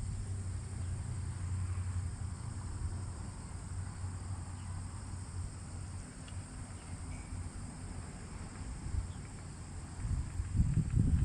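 Outdoor lakeside ambience: wind rumbling on the microphone under a steady high drone of insects, with a stronger gust near the end.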